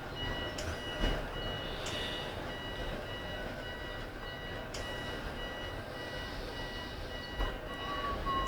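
Tram door warning beeper sounding a fast, steady run of high beeps while the tram stands at a stop, over the low hum and rumble of the tram, with a few light clicks.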